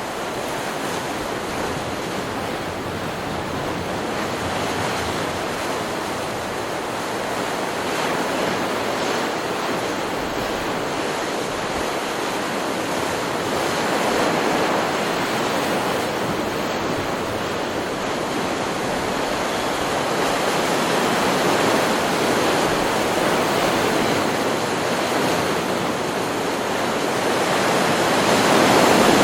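Ocean surf from a stock beach-sound recording: a steady rush of breaking and washing waves that swells a little louder a few times, most clearly near the end.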